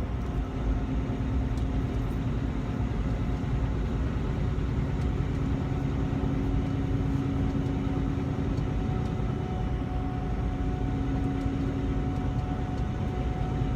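Semi-truck tractor running down the road bobtail, heard from inside the cab: a steady engine and road drone with a constant low hum.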